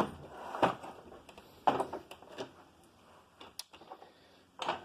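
A handful of light, scattered knocks and clicks, about five in all, with one sharp high click a little past halfway.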